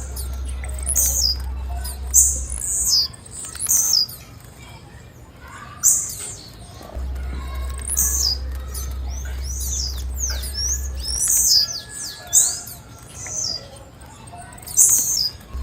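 Female blue-black grassquit (tiziu) calling: a string of short, high chirps and quick downward-sweeping notes in irregular clusters. A low hum runs underneath during the first couple of seconds and again in the middle.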